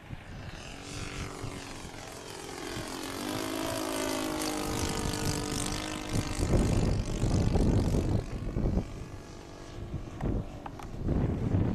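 Radio-controlled pylon racer with a YS 110 supercharged four-stroke glow engine and a two-blade propeller flying past, its engine note rising and then dropping in pitch as it passes. From about halfway through, gusts of wind buffet the microphone.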